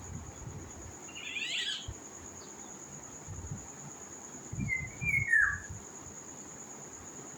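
Bird calling twice: a quick burst of high falling notes about a second and a half in, then a lower, falling call about five seconds in. Low rumbling noise is loudest around the second call.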